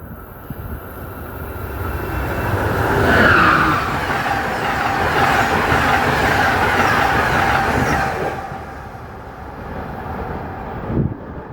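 A train passing at speed: the rail and wheel noise builds over the first three seconds or so, holds loud for about five seconds as it goes by, then fades away.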